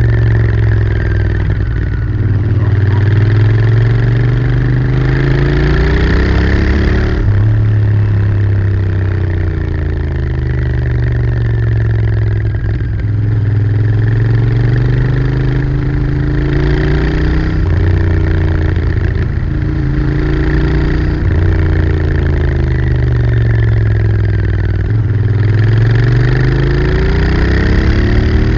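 Royal Enfield Interceptor 650's 648 cc parallel-twin engine through its stock exhaust, under way, its pitch rising and falling several times as the throttle is opened and closed, with an abrupt change about seven seconds in like a gear change.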